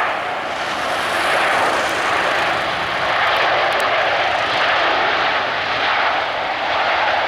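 Jet airliner's engines heard close by as the aircraft passes, a loud steady rush of noise that has swelled up just before and holds level.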